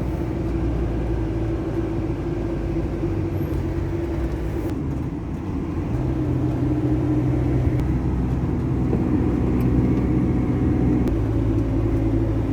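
Steady engine and road noise heard inside a moving car's cabin: a low rumble with a hum that gets a little louder about halfway through.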